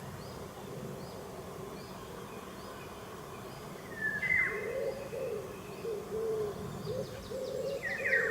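Wild birdsong: from about halfway, a low, soft hooting or cooing call repeated in quick runs, with a few short higher chirps from another bird.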